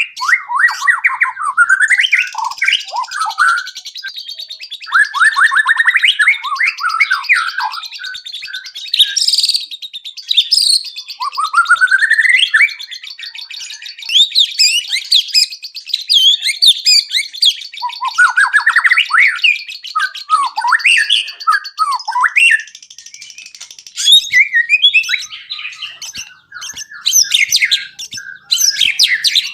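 White-rumped shama (murai batu) singing loudly and almost without pause, a fast, ever-changing stream of whistles, trills and quick rising phrases. It is running through its 'isian', the song pieces it has learned from other birds.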